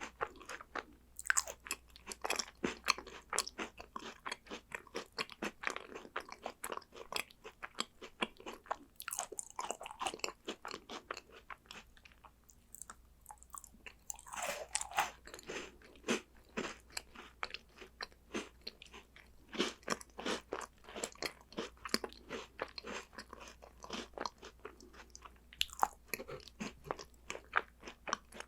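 Close-up crunching and chewing of crisp chocolate snacks, a rapid run of sharp crunches that eases off briefly about halfway, then picks up again with a loud bite.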